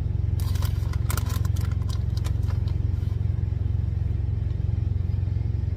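Steady low rumble of an idling truck engine, with light clicking and clattering of food and utensils being handled during the first half.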